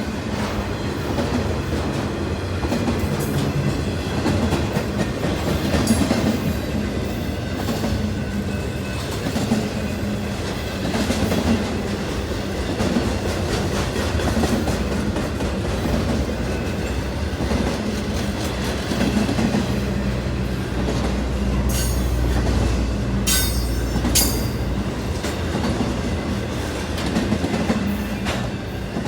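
Norfolk Southern intermodal container train rolling past at close range: a steady rumble with the clickety-clack of wheels over the rail joints. About three-quarters of the way through come a few brief high-pitched wheel squeals.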